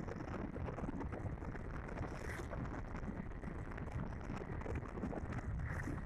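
Steady wind rush buffeting the microphone on a moving motorcycle, with road and engine noise underneath.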